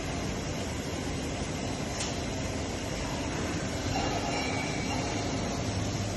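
Heavy-duty roll grinder running with a steady mechanical noise and a brief click about two seconds in.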